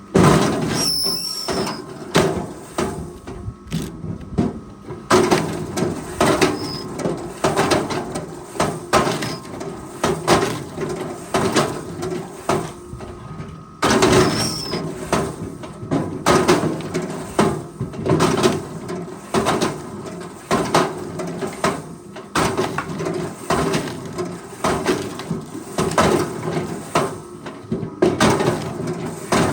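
Forestry machinery at work: dense, irregular knocking and clattering over a steady low engine hum, with a few brief high squeaks.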